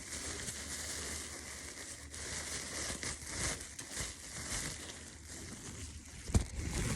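Continuous crinkling and crackling handling noise made of many small clicks, with a sharper thump about six seconds in.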